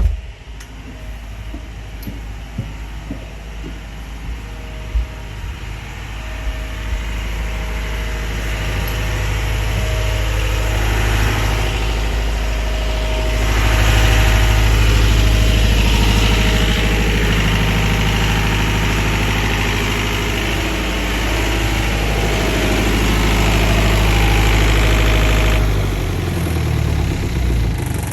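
A generator engine running steadily with a low hum, growing louder over the first half, then shut off near the end and winding down.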